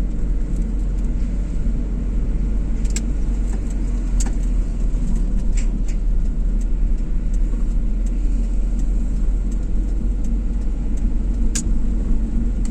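Car driving, a steady low rumble of engine and road noise, with a few short ticks along the way.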